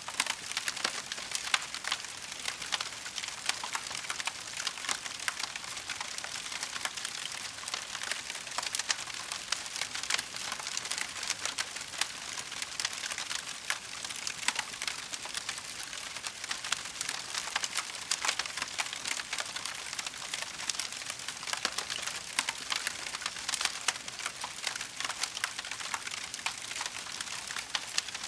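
Wood fire burning in a fireplace: a steady crackle of many small pops and snaps over a soft hiss.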